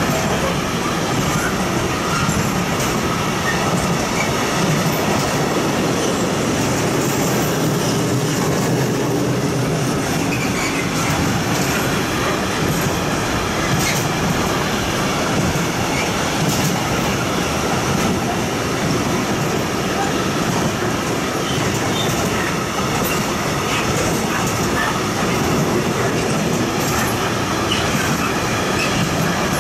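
Container flat wagons of a long intermodal freight train rolling steadily past: a continuous rumble and clatter of wheels on rail, with faint high wheel squeal at times and a few sharp clicks.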